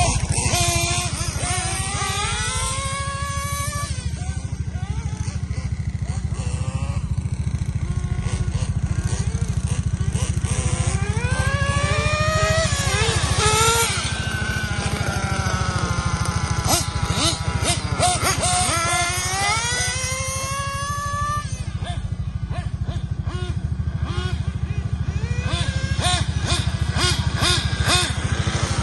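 Nitro engines of 1/8-scale RC cars running, their pitch rising and falling again and again as they rev up and back off, over a steady low hum.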